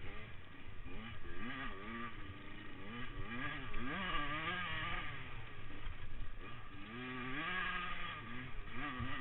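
Motocross dirt bikes' engines revving up and falling back as they ride, more than one at a time, swelling loudest about four seconds in and again near the end.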